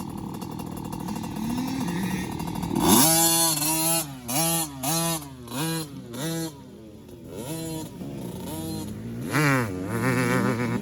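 Small two-stroke dirt bike engine, likely the new Cobra CX50 P3 50cc, idling and then revved in a run of short throttle blips, each rising and falling, with a pause near the middle and more blips near the end.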